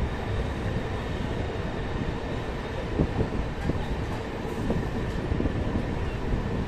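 Passenger train running slowly, heard from on board: a steady rumble of wheels on the rails, with a few short knocks, the loudest about three seconds in.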